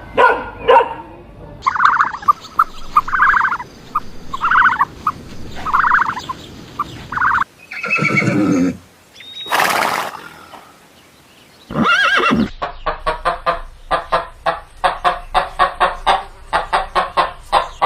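A run of animal calls in which a horse is neighing: short separate calls, a breathy noisy blast near the middle, and a long fast-trembling whinny in the second half.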